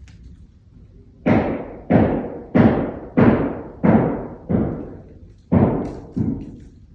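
Construction hammering: a steady run of heavy blows, about one every two-thirds of a second, each ringing on briefly, starting about a second in with a short break near the end.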